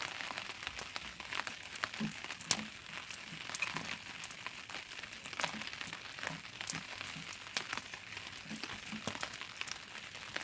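Rain falling steadily, a constant hiss with many irregular drops ticking and pattering on a nearby surface.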